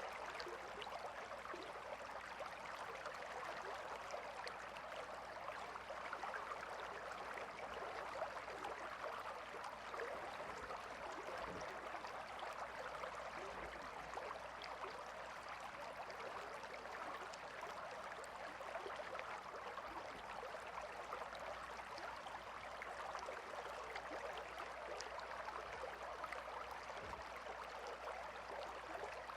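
A calm river flowing steadily: an even, unbroken rush of running water.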